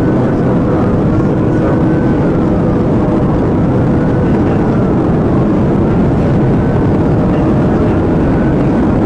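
Police car siren wailing, rising and falling slowly, over loud, steady engine and road noise of the patrol car driving at speed in pursuit.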